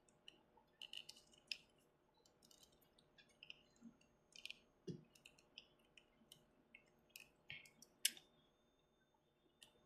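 Faint, scattered small clicks and taps of plastic parts and joints as an action figure is handled and posed, the loudest about eight seconds in, over near silence.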